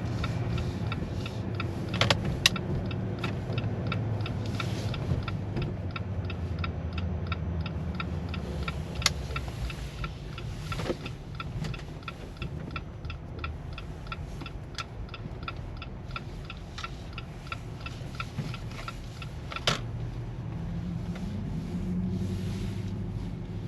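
Jeep Gladiator's turn-signal indicator ticking at an even pace, about two to three ticks a second, over a low engine hum inside the cab, with a few sharper clicks. The ticking stops a few seconds before the end.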